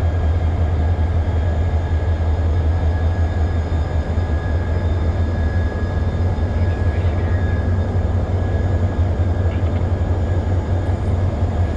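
Diesel locomotive running steadily: a loud, even low engine drone with a faint high whine held above it.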